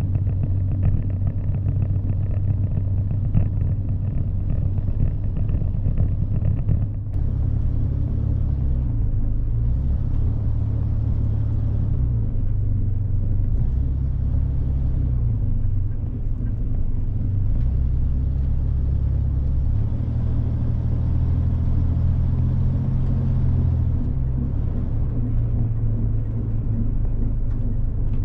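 A 1963 Chevrolet Corvair's air-cooled flat-six engine running as the car is driven: a steady low rumble whose pitch steps up and down several times as the engine speed changes.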